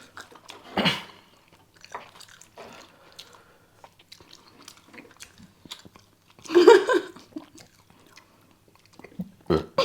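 People chewing and eating spicy ramen noodles, with many small wet clicks and a few louder bursts, the loudest about two-thirds of the way through.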